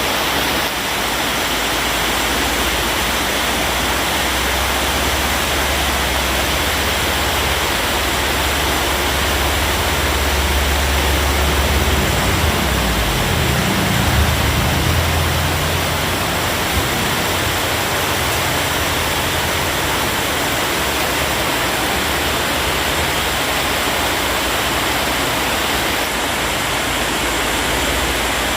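Heavy rain falling steadily, an even loud hiss. A low rumble swells up about a third of the way in and fades again a few seconds later.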